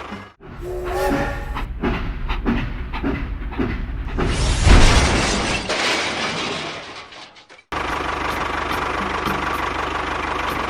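Machine running noise in several abruptly cut segments: a steady low motor hum with fine regular ticking, some knocks, and a loud hissing stretch in the middle.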